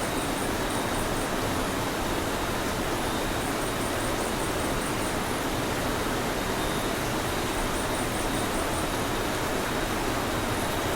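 Steady rain used as white noise: an even, unbroken hiss across the whole range with no single drops standing out, and faint high chirping trills recurring every few seconds.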